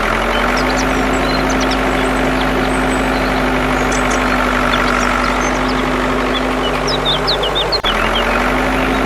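Mini tractor's engine running steadily with a constant hum, breaking off for an instant near the end before carrying on.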